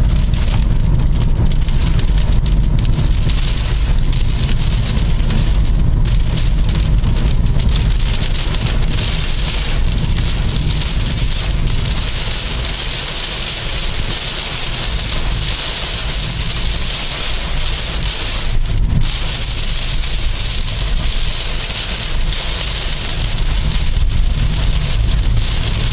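Steady rain noise with a heavy low rumble beneath it.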